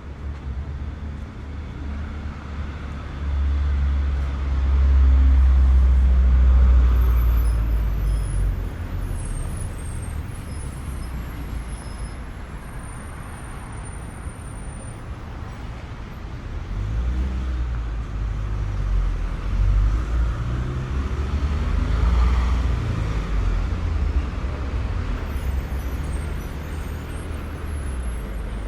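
City street traffic: road vehicles passing with a low rumble that swells twice and dies back. Faint high-pitched chirps come through now and then.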